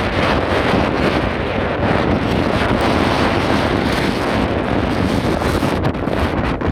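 Strong gale-force wind buffeting the microphone, a loud steady rumbling roar with no break.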